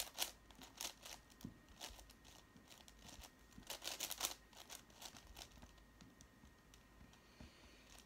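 5x5 Rubik's cube being turned by hand: quick plastic clicks and scrapes of the layers, in flurries with a denser run about four seconds in, as the last reduction step to a 3x3 is worked through.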